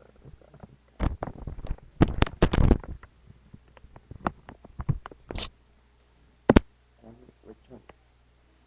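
Small toy cars clattering and knocking against each other and a hard surface: a dense run of bumps and rattles in the first few seconds, then scattered taps and one sharp louder knock about six and a half seconds in.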